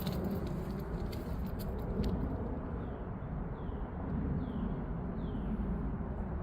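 Steady low outdoor rumble with light jingling clicks in the first two seconds or so, then a bird giving four short downward-sliding calls, each just under a second apart.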